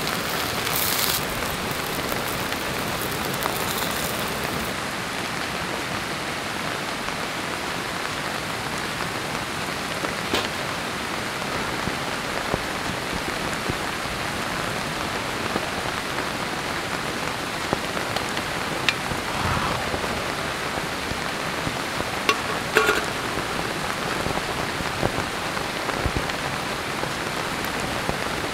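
Heavy rain falling steadily in a downpour, with a few light clicks and knocks scattered through it.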